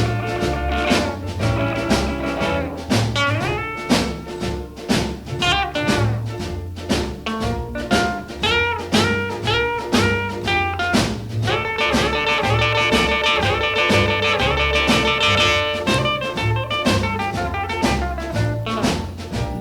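Instrumental break of a 1950s swing-style rhythm-and-blues band record, with no vocals: pitched instrument lines and sustained chords over a drum kit and a steady bass beat.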